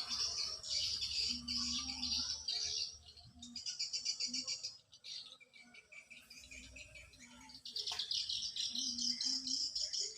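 Small birds chirping and twittering in rapid, high runs, loud at first, quieter around the middle, then rising again near the end.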